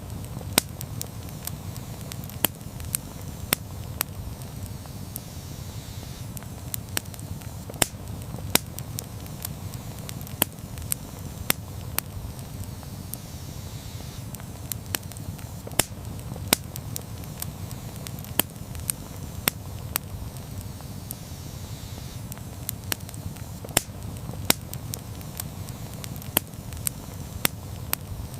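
Wood campfire burning: a steady low rumble of flames with sharp, irregular crackles and pops, about one or two a second.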